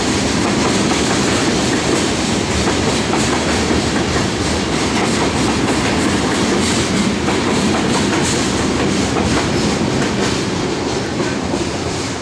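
Freight train of tank cars rolling past: a steady rumble of steel wheels on rail with irregular clicks as the wheels cross rail joints, easing slightly near the end as the last cars go by.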